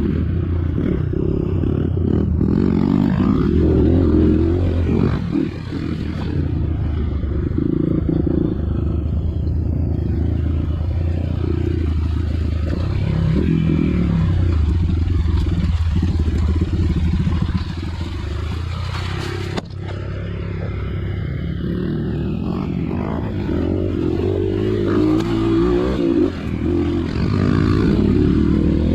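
Dirt bike engine running on a trail, its note rising and falling with the throttle, with rattling and scraping over the rough ground. The engine drops off briefly about two thirds of the way through.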